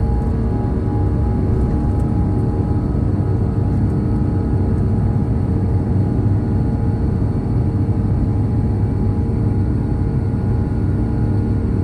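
Aircraft engines droning steadily: a heavy low rumble with several steady tones over it, unchanging in level.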